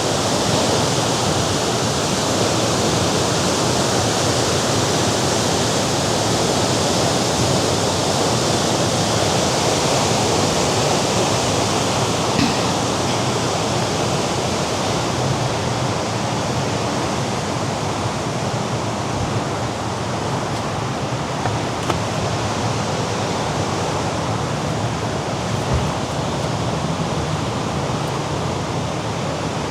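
Mediterranean sea surf breaking on the rocks below a cliff, a steady continuous rush of waves.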